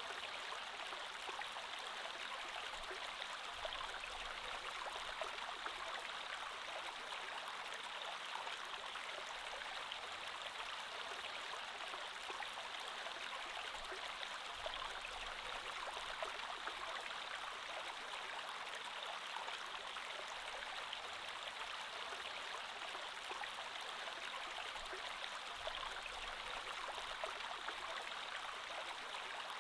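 Creek water flowing steadily, a continuous even rush with no breaks.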